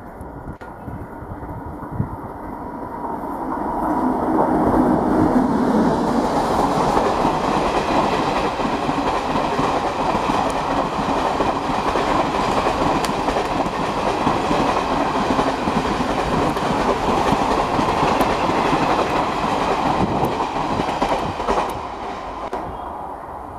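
Jan Shatabdi Express, hauled by an electric locomotive, running through without stopping. The rumble builds over the first few seconds, then the coach wheels rumble and clatter steadily over the rails as the train passes, fading near the end.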